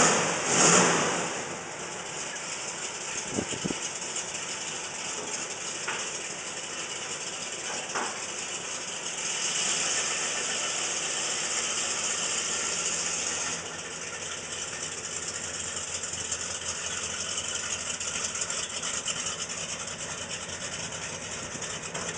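1969 Plymouth Road Runner's 383 Magnum big-block V8 running at idle. There is a brief loud surge right at the start, and it runs louder for about four seconds midway.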